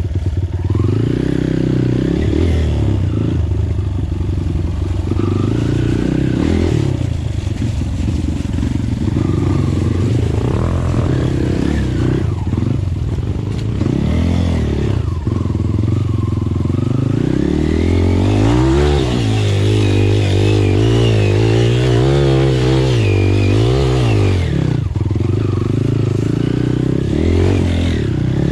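Dirt bike engine running under load, its pitch rising and falling in repeated revs through the middle.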